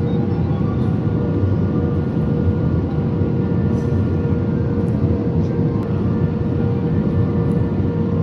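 Steady cabin noise of an airliner in flight: an even engine and airflow rumble with a steady engine hum.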